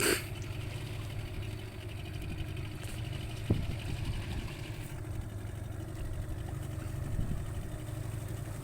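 Fishing boat's engine running steadily at low revs, with a single sharp knock about three and a half seconds in.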